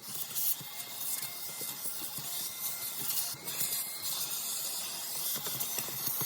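Vacuum cleaner running, a steady airy hiss with a faint high whine and light irregular ticks.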